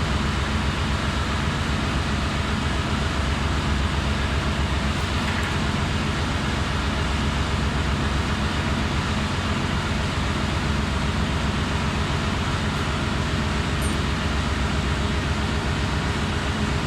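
Steady drone of running engine-room machinery, a low hum with a fast, even throb and a constant hiss over it.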